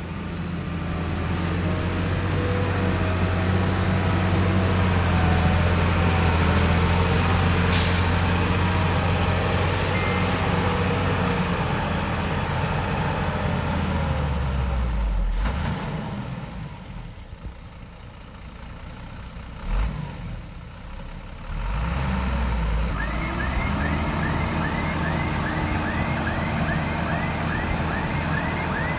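Diesel engine of heavy earthmoving equipment running under load, then easing off for several seconds before picking up again, with a brief hiss about eight seconds in. Near the end a reversing alarm starts beeping, about three beeps a second.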